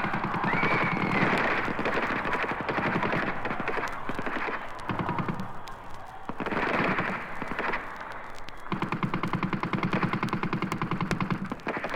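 Recorded sound effect of rapid automatic gunfire in bursts of about ten shots a second, broken by short pauses, the longest burst near the end.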